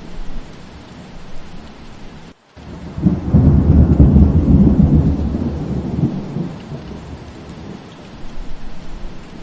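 Steady rain with a roll of thunder that starts about three seconds in, is loudest a second or two later and dies away over the next few seconds. Just before the thunder the sound cuts out for a moment.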